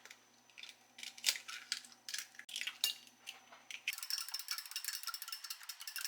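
Light clinks and taps of kitchen utensils against dishes, about a dozen separate strikes, turning into a denser run of small rapid clicks over the last two seconds.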